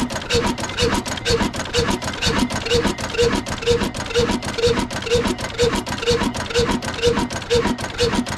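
Old Ruston-type oil diesel engine running steadily at low speed, with an even beat a little over twice a second and a fast clatter between the beats.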